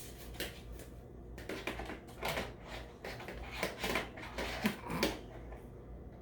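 Vacuum cleaner parts being fitted together by hand: a string of irregular clicks and knocks as the pieces are handled and snapped into place.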